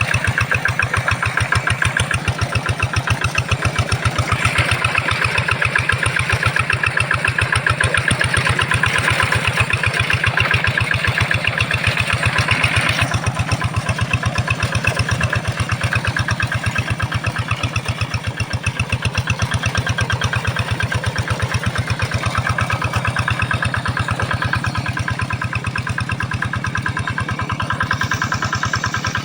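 Kato hand tractor's engine running steadily with a fast, even chugging beat as it pulls a single plow through a rice field; its tone thins a little after the halfway point.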